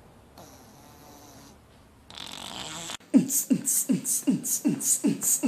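A tabby cat snoring with its mouth open: a faint breath, then a louder rasping one. About three seconds in, a fast, even series of short thumping beats starts, about four a second, each falling in pitch.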